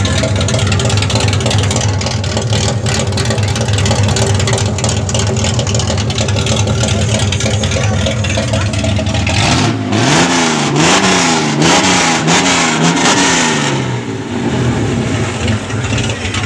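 Chevrolet Opala's engine idling steadily, then revved up and down about four times in quick succession a little past halfway, before settling back to idle.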